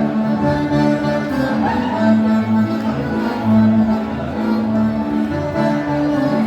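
Live instrumental dance-band music in the gaúcho style: sustained melody notes over a bass line that pulses on a steady beat.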